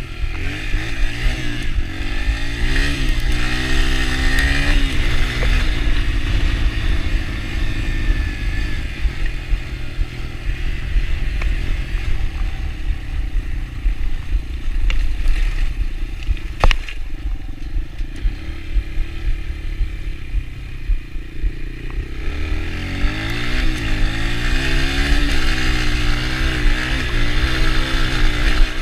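Yamaha TT-R125 dirt bike's single-cylinder four-stroke engine revving up and down as it is ridden, with the revs climbing and dropping several times. It settles lower and steadier through the middle, where one sharp knock stands out a little past halfway.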